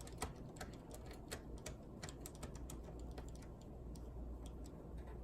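Light, irregular clicks and ticks from working on a laptop's plastic case: a screwdriver on small screws and plastic parts being handled, several clicks a second.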